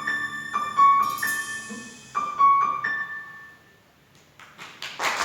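Piano playing a few slow high notes, the last one fading away about three and a half seconds in. A few scattered claps follow, and applause breaks out at the very end.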